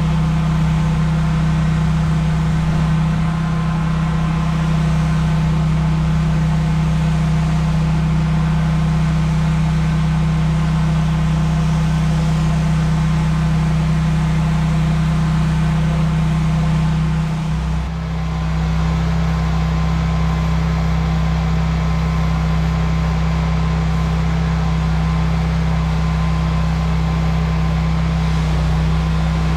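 Pressure washer engine running steadily at a loud, constant drone with water-spray hiss above it. About 18 seconds in it dips briefly and settles onto a slightly different pitch, then runs steadily again.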